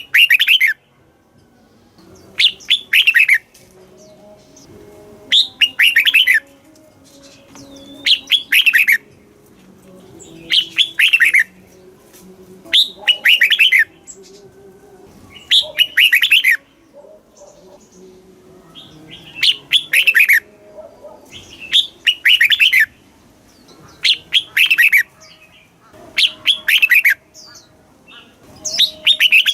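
Red-whiskered bulbul singing, repeating its short song phrase about every two and a half seconds; each phrase is a quick run of falling notes.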